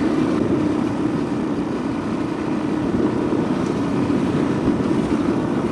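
Steady wind noise on a rider's microphone while riding at road speed, with a motorcycle engine running steadily underneath.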